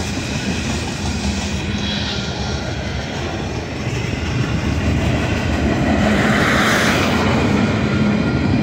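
Freight train boxcars rolling past at close range: a steady noise of steel wheels running on the rails, a little louder in the second half.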